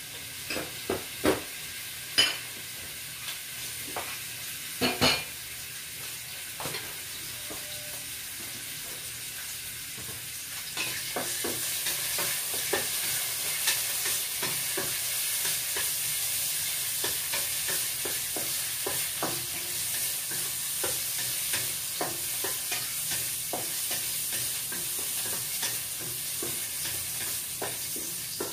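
Garlic sizzling in hot cooking oil in a wok as it is sautéed, stirred with a wooden spatula that taps and scrapes against the pan. A few sharp knocks come in the first five seconds, and the sizzle grows louder from about ten seconds in as the garlic fries.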